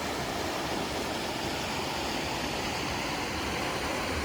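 Steady rushing of fast-flowing floodwater, an even noise with no let-up.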